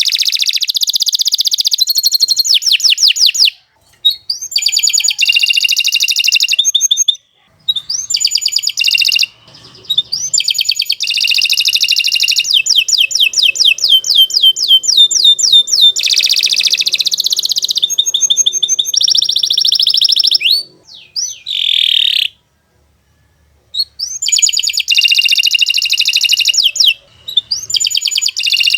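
Domestic canary singing long, fast trills of rapidly repeated high notes, in long phrases broken by a few brief pauses.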